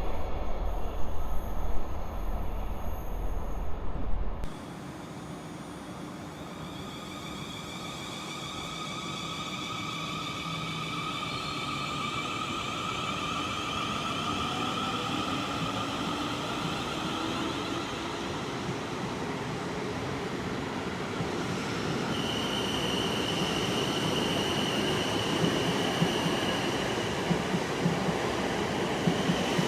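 A train running on the rails with steady high-pitched wheel squeal over its rolling noise. For the first four seconds a deep low rumble dominates, then cuts off suddenly and the level drops; from about two-thirds of the way in a stronger squeal tone sets in.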